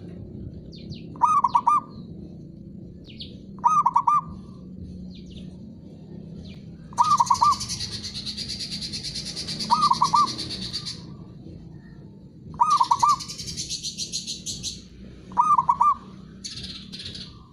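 Zebra dove cooing: six short trilled coo phrases, each a quick run of a few notes, about every three seconds. Between them a second, higher bird gives a long fast chatter twice and a brief one near the end.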